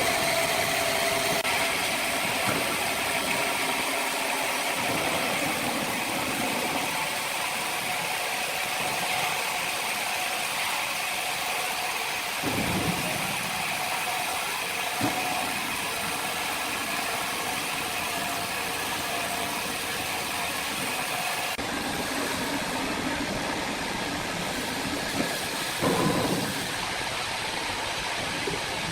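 Sawmill machinery running with a steady mechanical drone and a faint steady whine, with a couple of brief knocks, one about halfway through and one near the end.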